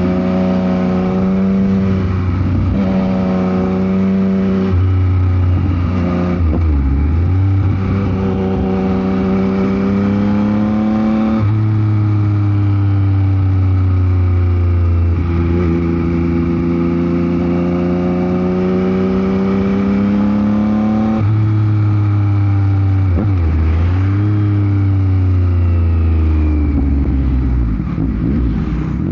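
Yamaha MT-09 SP's three-cylinder engine through a Dominator GP aftermarket exhaust, riding under load: the pitch climbs steadily in each gear and drops sharply at each of several gear changes, with wind noise over the microphone.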